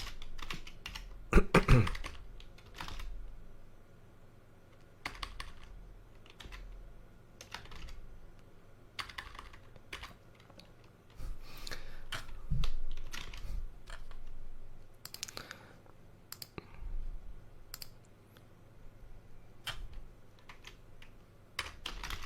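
Typing on a computer keyboard: irregular key clicks in scattered runs with pauses. There is one brief louder sound about a second and a half in.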